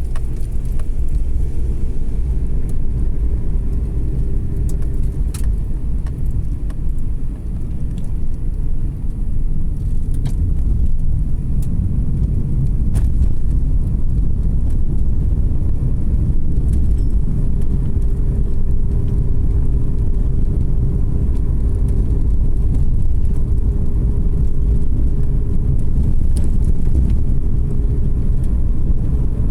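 Car driving uphill, its engine and tyres making a steady low road rumble as heard from a dashcam. A faint engine hum comes in during the first few seconds and again from about halfway, with occasional small clicks.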